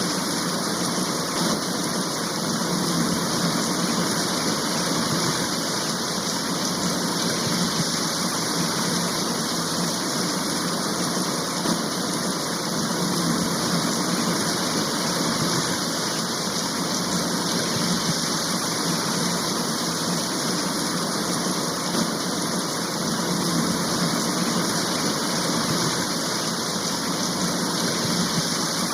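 Steady downpour of rain, an even hiss that does not let up.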